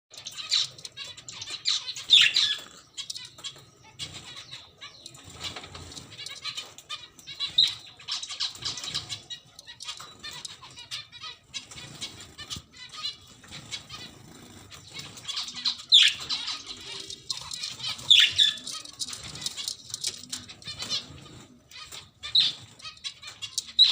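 Budgies chirping and chattering, with several loud, sharp calls standing out among continuous softer chirps.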